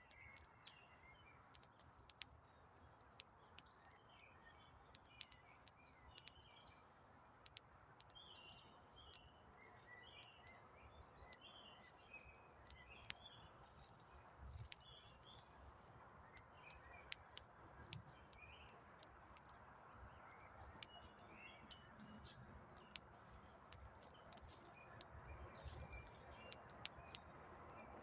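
Faint wood campfire crackling, with frequent short pops scattered throughout over a soft hiss, while small birds chirp in the background.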